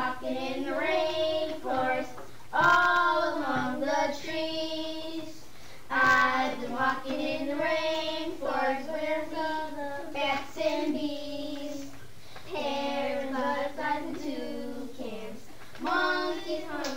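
A child singing, a melody of held notes in short phrases with brief pauses between them.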